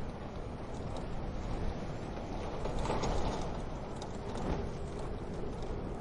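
Wood fire crackling in a wood-burning stove: a few soft pops scattered over a steady low rushing noise.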